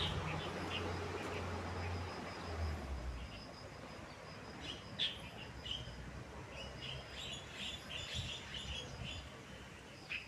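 Small birds chirping in short calls, with a quick run of chirps about two-thirds of the way in. A low rumble underneath fades out about three seconds in.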